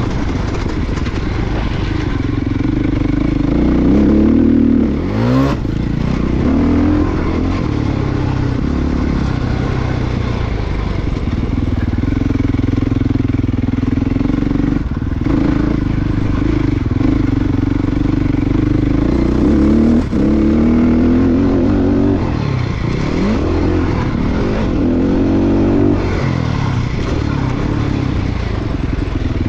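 Motocross dirt bike engine running hard, its pitch climbing and falling again and again with throttle and gear changes as it is ridden around the track, with brief sharp drops in revs about five seconds in and again near the twenty-second mark.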